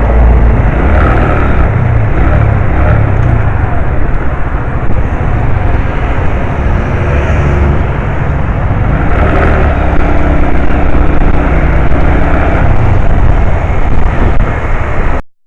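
A 125 cc motorbike riding along: heavy wind rumble on the microphone over the engine running steadily, cutting off suddenly near the end.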